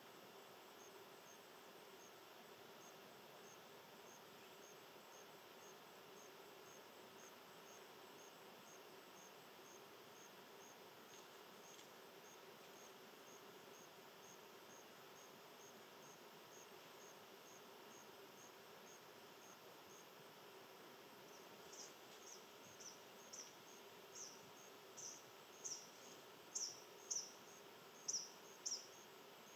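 Faint insect chirping outdoors: a soft high chirp repeated evenly about two or three times a second. Near the end a run of louder, sharp high chirps comes in, growing louder with each one.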